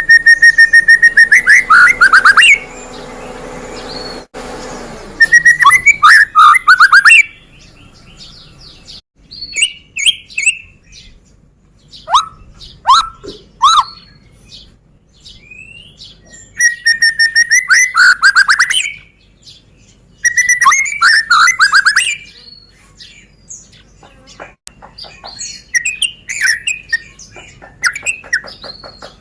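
White-rumped shama (murai batu, Medan type) singing: loud bursts of rapid, repeated notes, four times, alternating with quieter whistled notes and short downward slurs.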